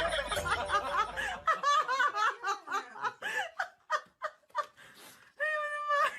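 Laughing in short, choppy bursts, over music that stops about one and a half seconds in; near the end comes one longer, held cry.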